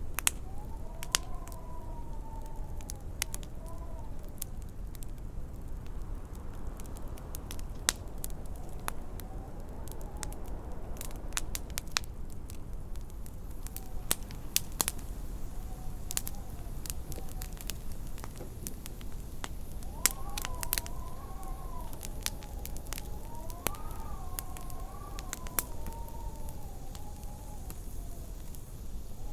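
Wood fire crackling with frequent sharp pops, over a steady low wind rumble. Twice, once early and once past the middle, the wind howls in a high, wavering tone that rises and falls for a few seconds.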